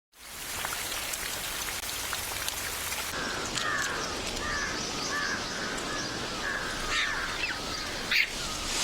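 Steady rain hiss. About three seconds in, a run of short, repeated falling animal calls joins it, and there is a sharp click near the end.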